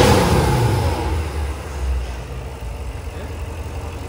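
Car engine, loud at first and falling in pitch as it dies away over the first two seconds, then a quieter steady low rumble.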